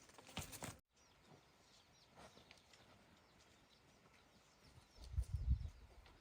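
Birds chirping faintly in short, repeated calls, with a low rumble about five seconds in.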